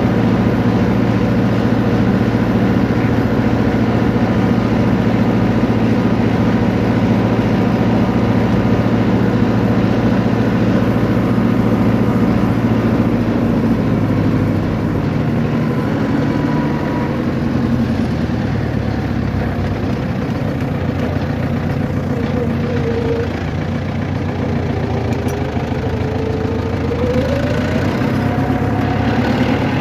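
A motor vehicle's engine running steadily with a low hum, its pitch rising in the last few seconds.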